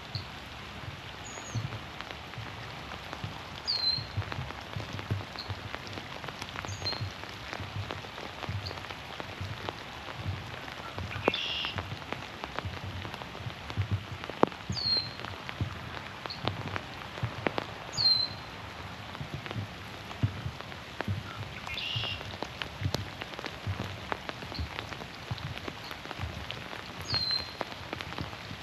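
Steady rain falling through the forest and onto the pond, with single drops tapping close by. A bird repeats a short falling chirp every few seconds.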